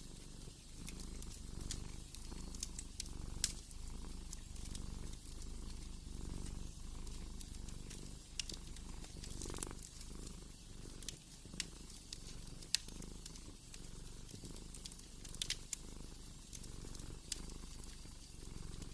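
Cat purring, a low rumble that swells and fades with each breath, over a fire crackling with scattered sharp pops.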